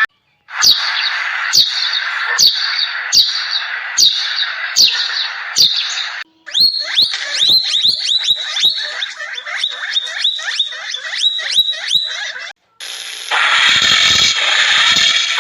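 Bird chirping in cut-together clips: sharp, high falling chirps about once a second, then quicker chirps several a second, then a cut to a noisier clip near the end.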